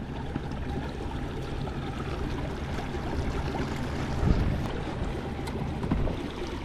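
Water lapping and sloshing around a kayak, with wind on the microphone and a low steady hum underneath; a single knock about four seconds in.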